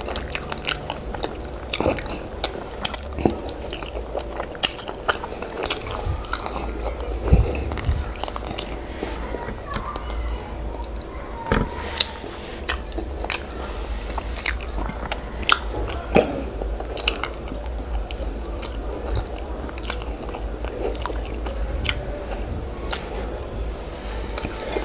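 Close-miked eating: chewing boiled yam and owo stew, with many irregular sharp, wet mouth clicks and smacks, over a steady low hum.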